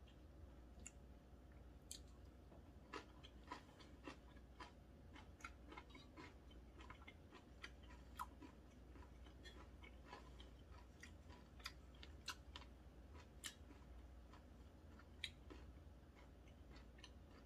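Faint close-up chewing of a thin-sliced beef and aged kimchi (mukeunji) roll, heard as soft, irregular mouth clicks, a few a second.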